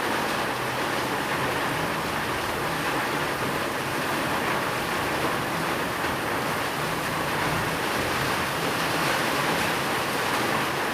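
Steady heavy rain: a dense, even hiss with no single drops or thunder standing out, over a faint low steady hum.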